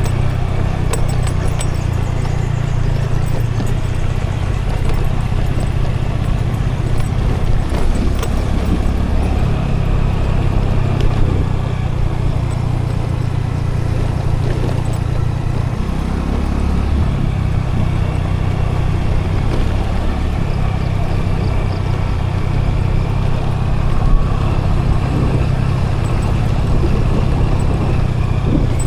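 Scooter engine running steadily under way, with continuous low road and wind rumble. The low drone shifts briefly about halfway through.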